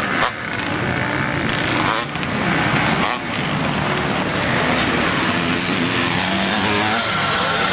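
Several motocross motorcycle engines revving up and down in pitch, overlapping as the bikes race on the track.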